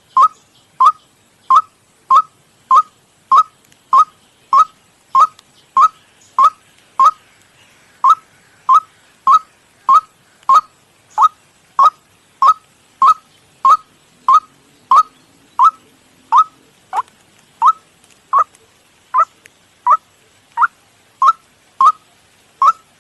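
Recorded white-breasted waterhen calls played as a bird-trapping lure: one short, slightly falling note repeated steadily about one and a half times a second.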